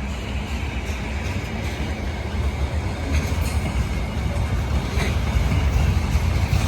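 Slow-moving freight train rolling past: a steady low rumble that slowly grows louder, with a few sharp wheel clicks about three and five seconds in.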